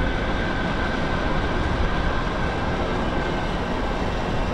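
Wind rushing over the microphone and tyre noise while riding a 72-volt Bafang BBSHD mid-drive e-bike, with a faint steady high whine from the motor that fades out about halfway through.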